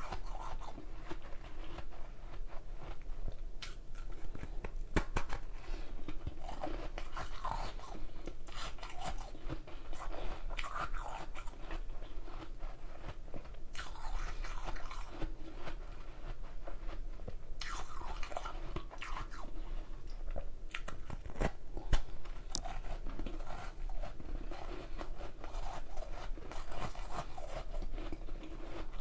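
Close-miked crunching and chewing of ice from a large ice block: irregular bites and crackling bursts, with one sharp crack about 22 seconds in.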